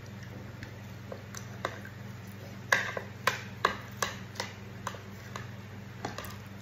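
Crunching while chewing crispy deep-fried, flour-coated beef slices with the mouth closed: a run of sharp crunches, about two a second, the first the loudest, starting a few seconds in. A steady low hum runs underneath.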